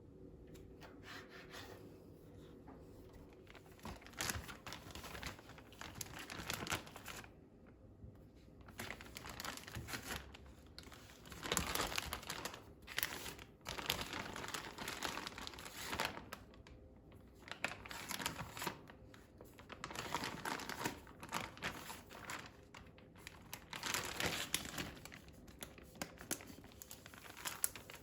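Packaging being handled close by: irregular crinkling and rustling, with tearing now and then, in uneven bursts that start a few seconds in.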